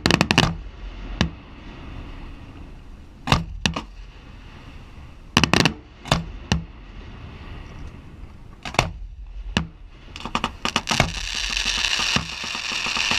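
Aerial firework shells bursting in a display: single sharp bangs and quick pairs at uneven intervals. About ten seconds in, a rapid cluster of cracks comes, and then a dense crackling hiss that grows louder towards the end.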